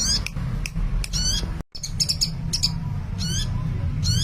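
Sunbird calling busily: short high chirps and quick stepped trills repeating every half second or so, over a low steady hum. The sound drops out for a moment a little before halfway.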